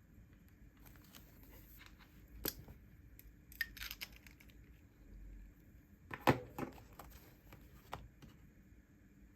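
Paper and stationery being handled at a desk: a few sharp clicks and taps and short papery rustles, the loudest cluster about six seconds in.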